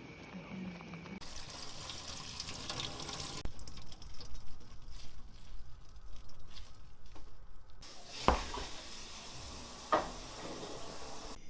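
Kitchen cooking sounds: a steady hiss of water or cooking in several short spliced segments, with light clatter and two sharp knocks, one about eight seconds in and one about two seconds later.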